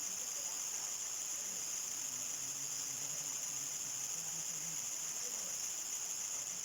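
Crickets singing at dusk: a continuous, even, high-pitched trilling chorus that does not change in level.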